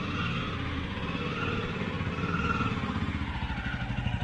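Jawa 42 motorcycle's single-cylinder engine running steadily on the move, a rapid even pulse of firing strokes under a haze of road and wind noise.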